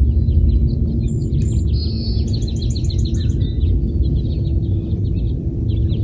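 Small songbirds chirping, with a quick trill of high notes about two seconds in, over a steady low rumble.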